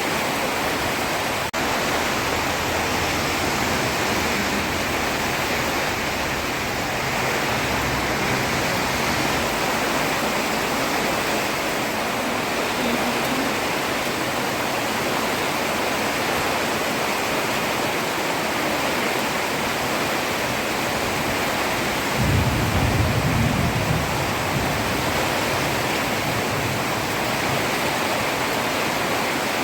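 Heavy rain falling steadily on a road: a dense, even hiss. About three-quarters of the way through, a low rumble swells for a couple of seconds.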